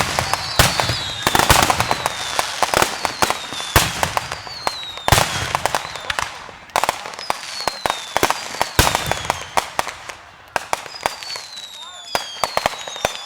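Fireworks display: rapid bangs and crackling bursts throughout, with several high whistles that slide down in pitch over a second or two.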